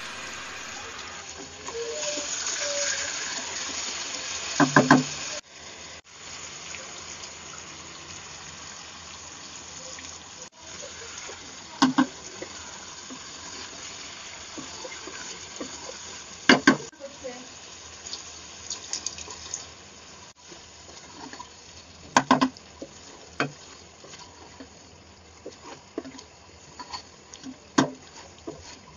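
Chicken curry sizzling in a nonstick pan with a steady hiss, stirred with a wooden spatula that knocks sharply against the pan several times.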